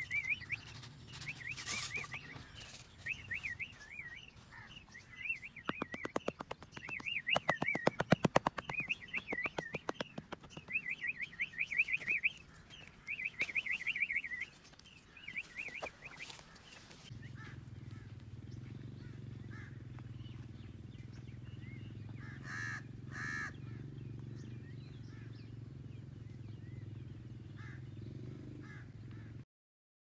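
Birds calling over and over with quick, wavering chirps, and a fast rattle of clicks in the middle. After that the calls fade and a steady low hum takes over, then cuts off suddenly near the end.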